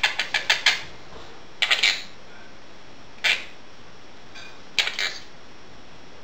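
Dishes and cutlery clinking and clattering in a sink: a quick run of sharp clinks at the start, then single short clatters every second or so.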